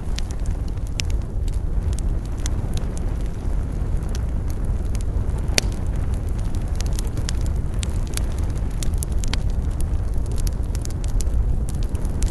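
Campfire burning with a steady low rumble of flames and frequent sharp crackles and pops of burning wood, one louder pop about five and a half seconds in.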